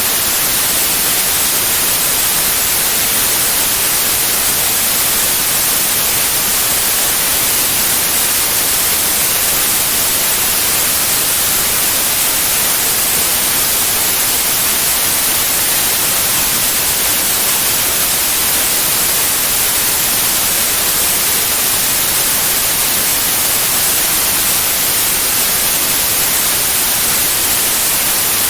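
Steady white noise: a constant, even hiss, loudest in the high frequencies, that never changes.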